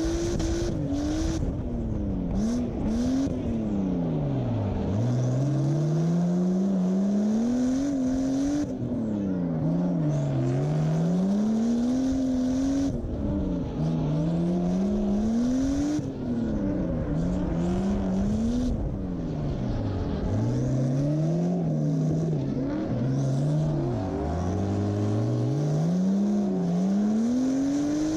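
Drift-built BMW E36's turbocharged V8 engine, close to the microphone, revving up and down over and over while the car drifts.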